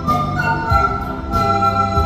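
Pan flute ensemble playing an Andean-style tune, held melody notes over a moving bass line and a steady beat.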